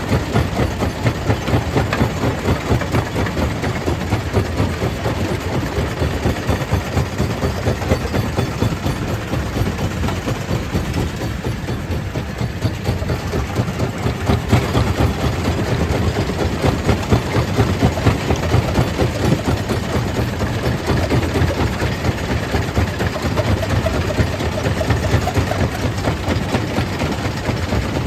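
Stone crusher plant machinery running steadily: a low, engine-like drone under a constant dense rattle, easing slightly about halfway through.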